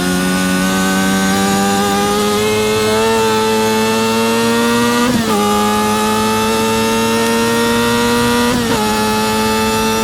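Yamaha R6 RJ03 inline-four engine pulling hard at high revs, its pitch climbing slowly, with sudden drops about five seconds in and again near the end as it shifts up a gear. Steady wind rush.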